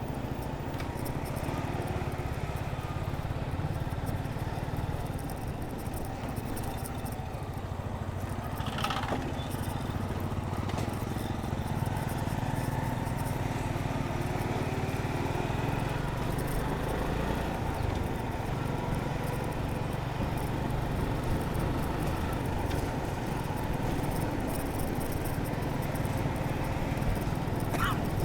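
Suzuki Gixxer 155's single-cylinder engine running steadily while riding, with wind and road noise. A short higher-pitched sound cuts through twice, about nine seconds in and near the end.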